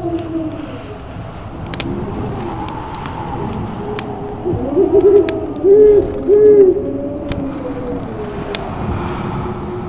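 Snowstorm wind howling with a wavering, whistling moan, while a wood fire crackles with scattered sharp pops. About halfway through, the howl swells into two or three loud warbling, hoot-like gusts before settling back.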